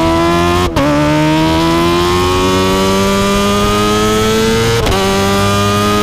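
Kawasaki ZX-25R's 250 cc inline-four engine through an Akrapovic exhaust, pulling hard with a steadily rising pitch. It cuts briefly and drops in pitch for an upshift about a second in, and again near the end, then keeps climbing.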